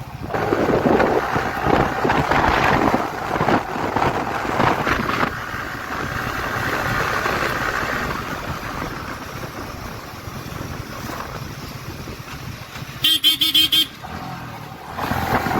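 Motorcycle riding through road traffic, with a steady rush of engine and road noise, and a vehicle horn honking for about a second near the end.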